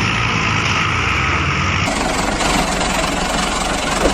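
Heavy diesel vehicle engine running steadily, the sound changing abruptly about two seconds in.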